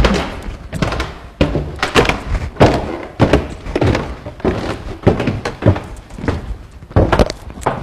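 A steady series of dull thuds, roughly one every half-second or so.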